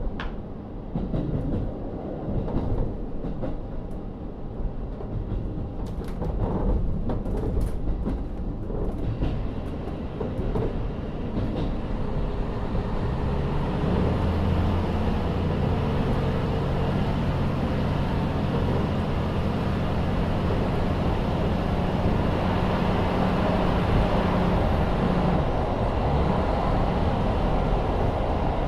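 Interior running sound of a KiHa 40 diesel railcar. After some clicks and a low rumble, its DMF13HZB diesel engine comes up to power about 13 seconds in and drones steadily as the car pulls away. The engine note changes near the end.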